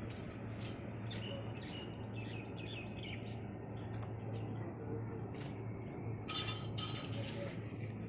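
A small bird chirping a quick run of about ten short falling notes, over a steady low hum; a brief hissing rasp sounds near the end.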